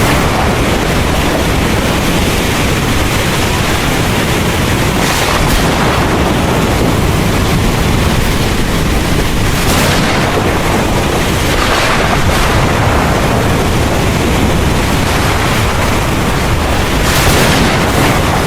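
Heavy rain hissing steadily under a deep, continuous rumble of thunder, with a few short swells of brighter hiss about 5, 10, 12 and 17 seconds in.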